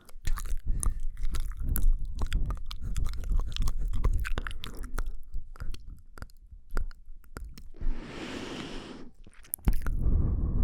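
Close-miked ASMR mouth sounds: a dense, irregular run of wet tongue and lip clicks, with a short breathy hiss about eight seconds in.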